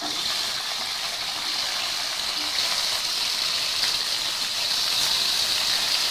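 Sliced tomatoes and onions sizzling steadily in hot oil in an aluminium kadai, the sizzle slowly growing louder as the tomatoes heat through.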